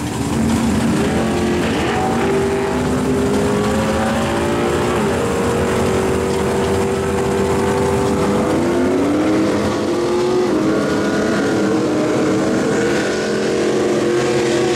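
Drag-racing engines running loud, their pitch rising and falling as they are revved.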